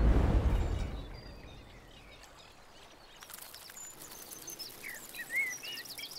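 A deep boom at the start that fades out over about a second, then small birds chirping and singing in the background from about three seconds in.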